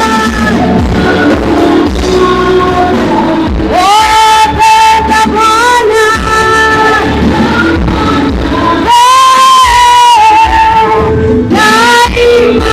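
Praise-and-worship music with singing: long-held sung notes over a steady band accompaniment.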